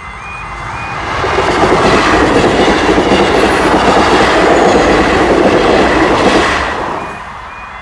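A diesel multiple-unit passenger train passing at speed over a level crossing: wheel and rail noise swells over the first second or two, stays loud for about five seconds, then falls away quickly near the end.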